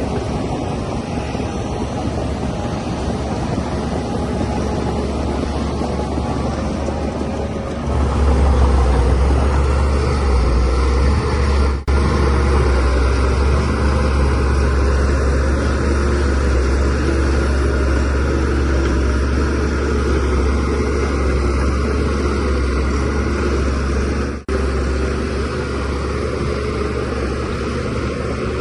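DH17C3 bulldozer's diesel engine running steadily, growing louder and heavier about a third of the way in as it works under load, with two momentary breaks in the sound.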